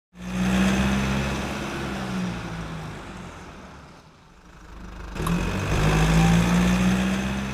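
A motor vehicle engine running. It is loud at the start, dies away to a low point about four seconds in, then builds up again a second later.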